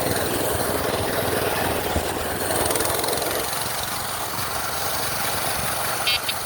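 Small gas minibike engine running steadily, easing off a little about three and a half seconds in. A short high electronic chirp near the end.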